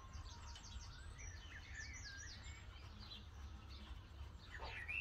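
Faint birdsong: a quick run of short, high chirps in the first couple of seconds and a few scattered lower chirps, over a steady low background rumble.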